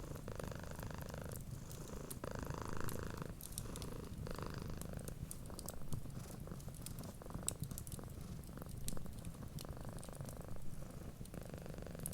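Cat purring steadily, swelling and easing with each breath about every two seconds, with small crackles and pops of a wood fire.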